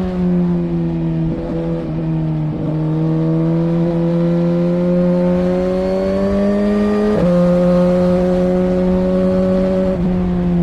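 Suzuki GSX-R1000R's inline-four engine running under way, its note climbing slowly through the middle, with a few brief breaks where the pitch steps.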